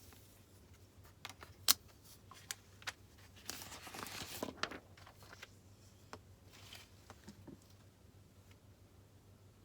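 Desk sounds: scattered sharp clicks and taps, the loudest a little under two seconds in, and about a second of paper rustling around four seconds in.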